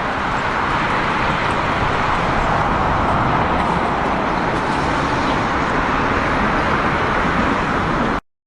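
Steady rushing noise of a jet airliner's engines, cutting off suddenly near the end.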